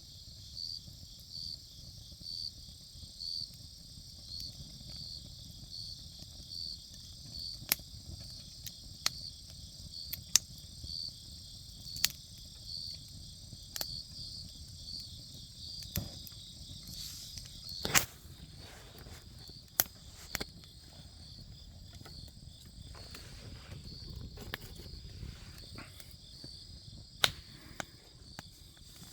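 Campfire wood crackling, with scattered sharp pops, the loudest about ten, eighteen and twenty-seven seconds in. Underneath, insects chirp steadily in a high pulsing trill about twice a second.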